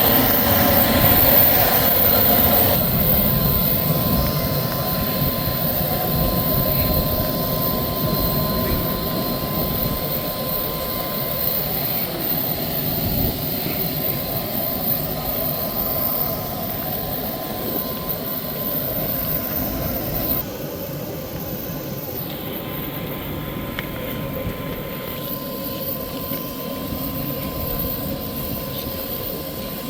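A steady mechanical drone with a faint steady whine in it. It drops abruptly in level about twenty seconds in.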